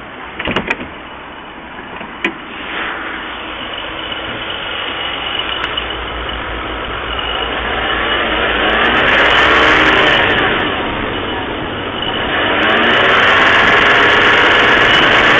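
Toyota 1JZ-GE VVT-i inline-six engine running with a knock, revved up and back down twice in the second half. A few sharp clicks are heard near the start.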